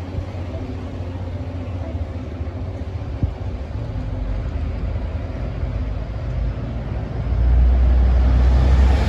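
Truck engine running steadily, with one short click about three seconds in; the engine gets markedly louder about seven seconds in and stays there.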